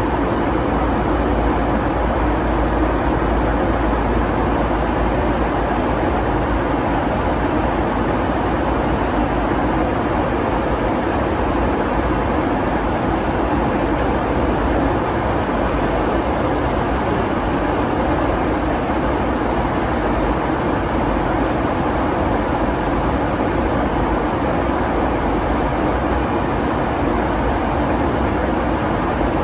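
Steady cabin noise of a Boeing 757-200 airliner: engine and airflow noise heard from inside the cabin, even and unchanging, with a steady low hum underneath.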